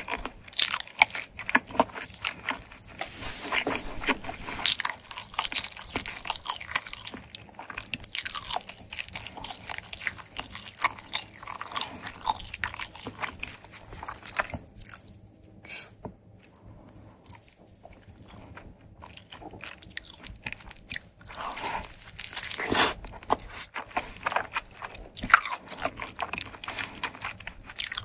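Close-miked chewing and crunching of pizza and its crust: a steady stream of wet clicks and crisp crunches, quieter for a few seconds in the middle, with a louder crunchy bite about three-quarters through.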